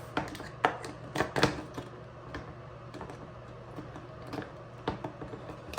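Plastic clicks and knocks from the housing parts of a countertop dishwasher being handled and snapped back into place. There is a cluster of sharp clicks in the first second and a half, then scattered lighter ticks.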